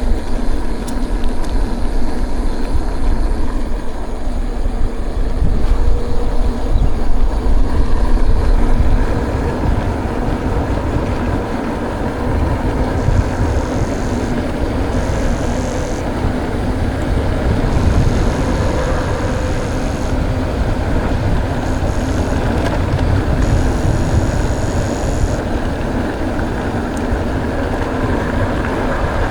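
Wind buffeting the camera microphone and tyres rumbling over a dirt trail as a mountain bike is ridden, loudest for the first nine seconds and then steadier.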